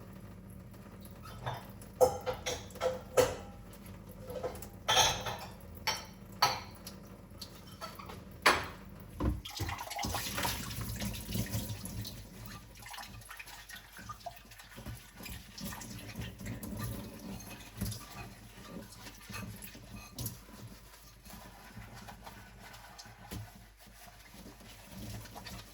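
Dishes being hand-washed in a sink: a run of sharp clinks and knocks of crockery over the first several seconds, then running water for a couple of seconds, then softer handling and dripping.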